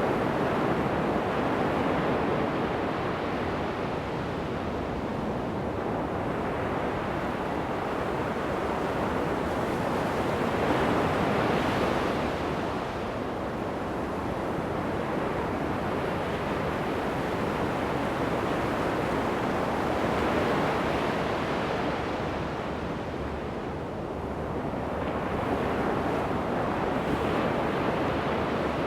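Ocean surf breaking on a sandy beach: a steady wash of waves that swells and eases over several seconds, with some wind noise on the microphone.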